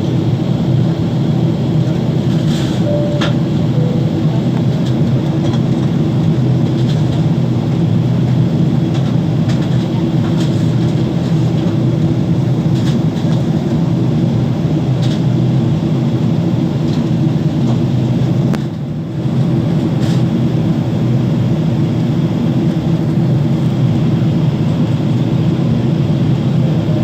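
Steady loud rumble of a Boeing 777-300ER heard from inside the cabin, with scattered light clicks and rattles. The level dips briefly about nineteen seconds in.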